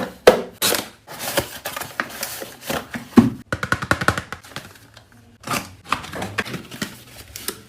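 A parcel of slime supplies being unboxed by hand: irregular rustling, crinkling and tearing of packaging, with scattered clicks and knocks as the contents are handled.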